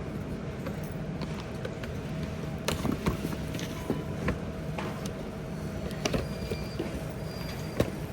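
Supermarket background: a steady hum with scattered light clicks and knocks of handling and cart movement, and a few faint high beeps near the end.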